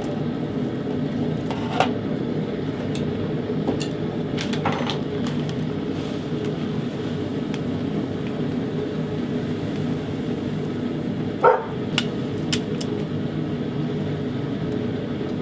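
Propane forge burner running with a steady low roar, which the smith hears as a sign the propane tank is running low. A few short clinks of metal come and go over it.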